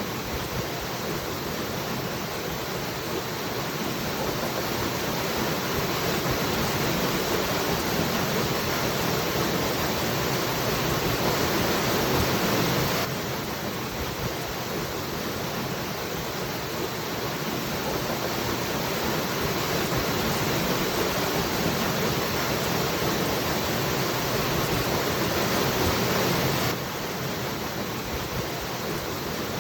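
Waterfall rushing, a steady dense hiss of falling water. It dips suddenly in level twice, then slowly builds again.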